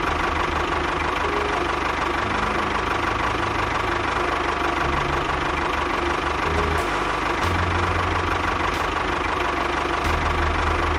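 Tractor engine running steadily, with a low throb that shifts unevenly under a constant hiss.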